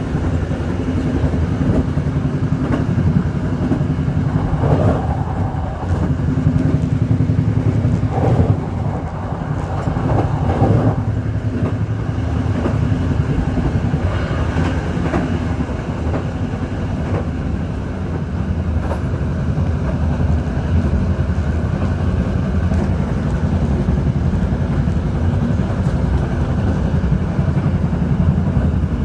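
Passenger train running along the track, heard from inside a rear carriage: a steady low rumble of wheels and carriage. A few brief, louder rattles come through about 4 to 11 seconds in.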